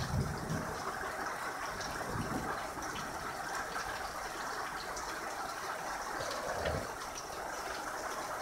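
Heavy rain falling steadily, with a few brief low thumps, the loudest right at the start.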